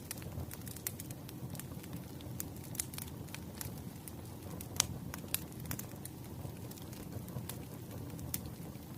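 Firewood burning, with irregular crackles and sharp pops over a steady low rumble of the flames; the loudest pop comes about halfway through.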